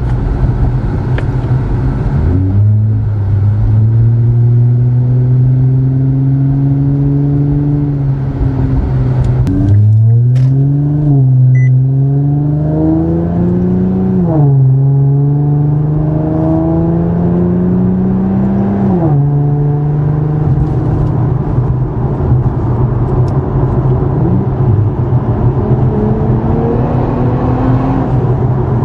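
Infiniti Q50 3.0t twin-turbo V6 through a 2.5-inch custom catback with a single midpipe resonator, running steadily, then accelerating: the exhaust note climbs and drops sharply at each of several upshifts, then settles into a steady cruise.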